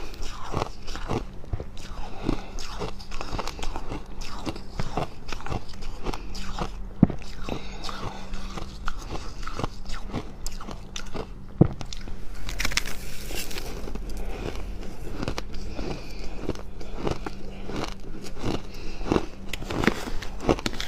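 A person biting and chewing fluffy freezer frost: a run of irregular dry crunches, a few each second, with two sharper, louder bites partway through.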